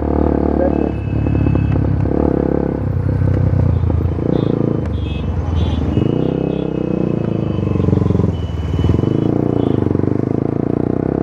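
Loud single-cylinder engine of a remapped Bajaj Pulsar NS 200 breathing through a free-flowing Akrapovic exhaust, running under way. Its pitch climbs and drops back as the throttle is worked, most plainly past the middle.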